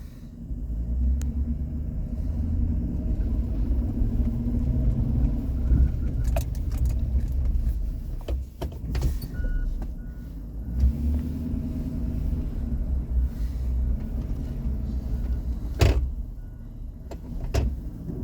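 Pickup truck's engine running with a heavy low rumble, its pitch rising and falling twice as it revs or pulls. A few sharp clicks and brief high beeps are heard along with it.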